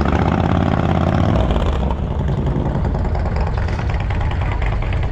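Harley-Davidson motorcycle engines running, strongest for the first second and a half and then easing to a steadier, slightly lower level.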